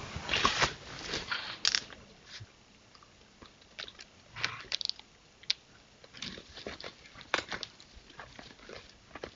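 Irregular crunching and chewing from scavengers feeding on a deer carcass. The crunches are dense for the first couple of seconds, then come as scattered sharp cracks.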